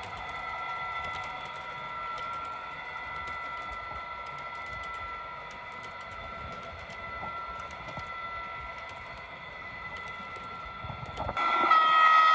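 Trix Class 77 model diesel locomotive running on its track: a steady whining hum with many light clicks. About 11 s in, a louder sound with several tones sets in.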